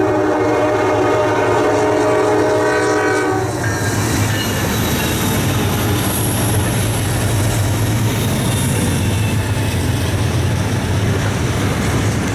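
Locomotive air horn sounding a chord of several notes, held for about three and a half seconds, then the train rolling past with a steady engine drone and the clatter of wheels on the rail joints.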